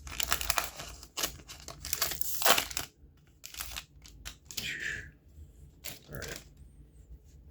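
A Magic: The Gathering collector booster pack's wrapper being torn open and crinkled by hand. Dense crackling tearing fills the first three seconds, then it thins to scattered crinkles and clicks as the pack is pulled open.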